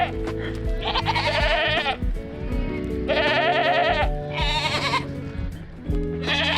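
Goats bleating three times, each call about a second long and wavering, over background music with steady sustained chords.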